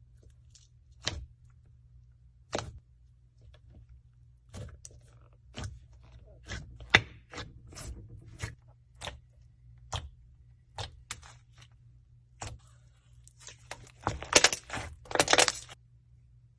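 Scattered short taps, clicks and crunchy scrapes, roughly one a second, then a denser run of crackling near the end.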